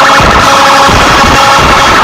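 Music blasting from a car sound system at very high volume, continuous and dense, with heavy bass.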